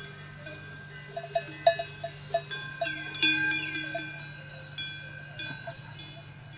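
Metal bells struck irregularly, several clanks in quick succession with overlapping notes that ring on and fade, thickest in the first half, over a steady low hum.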